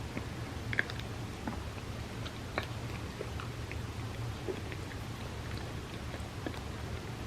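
Close-miked chewing of a bagel with cream cheese: soft, scattered mouth clicks and small wet smacks over a steady low hum.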